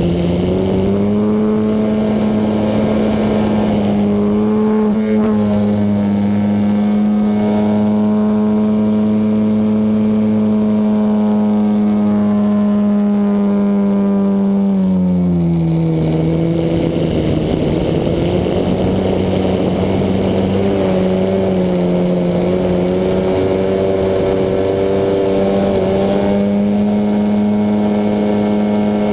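Desert Aircraft DA-100 twin-cylinder two-stroke gas engine of a Hangar 9 Extra 260 RC airplane running at high throttle, heard onboard. Its pitch rises about a second in, holds steady, drops around the middle as the throttle comes back, then climbs again a few seconds later and wavers with throttle changes.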